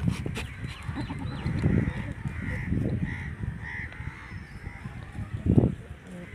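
A bird calls three times in quick succession over a low rumbling noise on the microphone, with a dull thump about five and a half seconds in.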